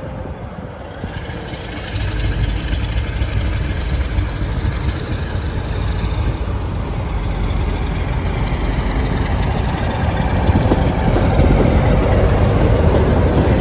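British Rail Class 47 diesel locomotive accelerating away, its engine rumble and the train's running noise growing steadily louder.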